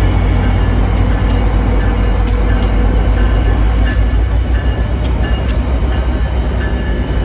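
F40FH diesel-electric locomotives running: a loud, steady low rumble with light clicks coming and going over it.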